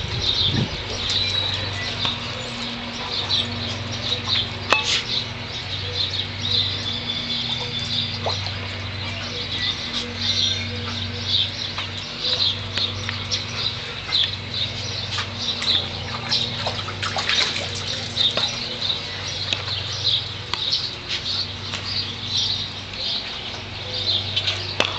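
Birds chirping over and over, with a steady low hum underneath.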